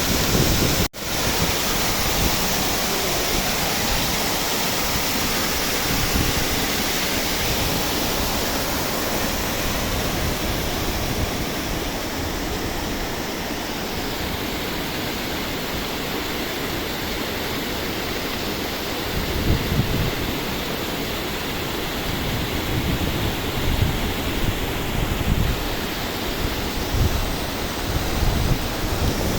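The Guadalmedina river flowing steadily, with a continuous rush of water. The sound cuts out for an instant about a second in. Wind buffets the microphone with low rumbles in the second half.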